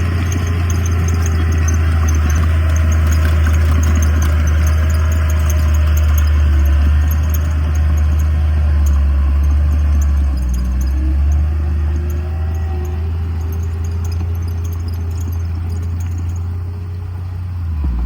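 Diesel engine of heavy earthmoving machinery running steadily under load with a deep drone, and faint wavering whines above it. It eases off a little after about twelve seconds.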